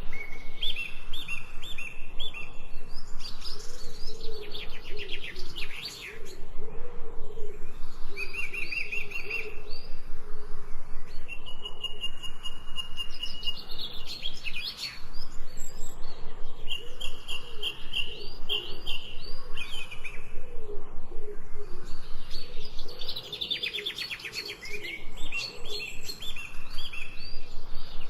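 Birds chirping and calling over one another, with quick runs of short high repeated notes and a lower arching call beneath them.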